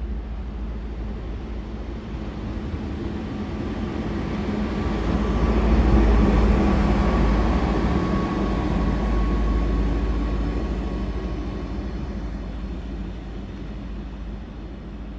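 A train passing: a rumbling rush of wheels and motors that builds to its loudest about six seconds in, then slowly fades, with a faint steady whine over it in the middle.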